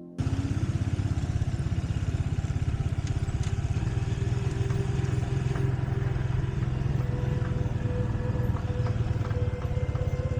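Motorcycle engine running steadily under way, a fast even pulsing beat, cutting in abruptly just after the start.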